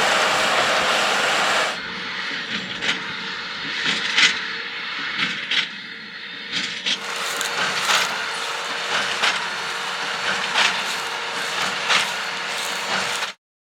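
Tractor and large square baler running in straw, with a regular knock about every second and a half from the baler's working stroke. The sound cuts off abruptly near the end.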